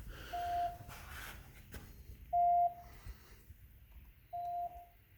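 2GIG GC3 alarm panel beeping, a single short tone about every two seconds: the entry-delay countdown after a protected door opens, before the code is entered.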